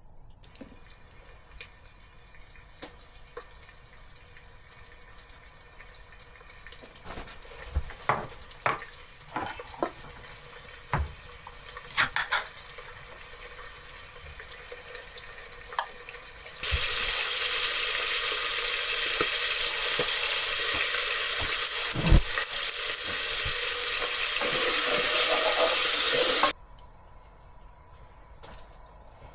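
A few scattered knocks and clicks, then a steady hiss of running water for about ten seconds that starts and stops abruptly.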